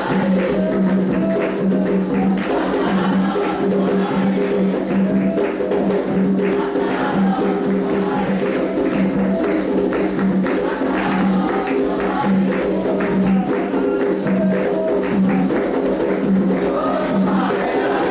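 Candomblé atabaque drums and percussion playing the rum for Iansã, a dense, fast rhythm, with voices singing over it.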